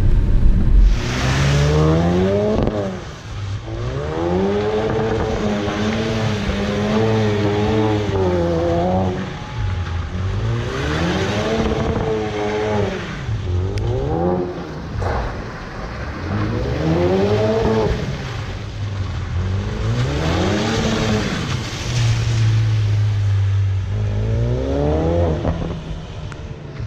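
Turbocharged four-cylinder car engine revving up and down again and again while the car is slid around on wet pavement. The revs are held high and wavering for several seconds early on, then dip to a steady low note before climbing again near the end, over a constant hiss of tyres on the wet surface.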